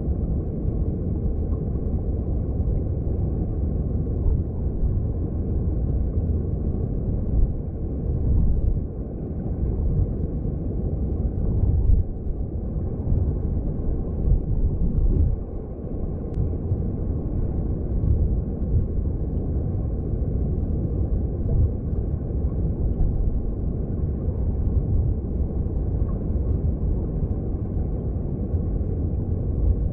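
Underwater sound of a mountain stream: a steady, muffled low rush of flowing water, with small swells in level now and then.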